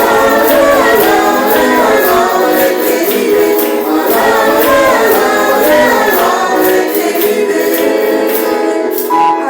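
Congregation and worship group singing a praise song, with a regular tambourine beat.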